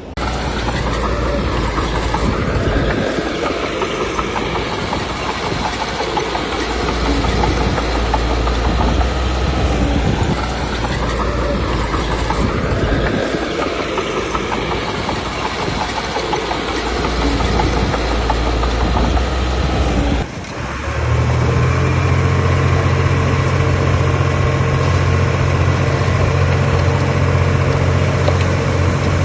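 Diesel engine of heavy earthmoving machinery working, its pitch rising and falling in repeated cycles of a few seconds as the load changes. About two-thirds of the way through the sound breaks briefly and gives way to a steady, even engine hum.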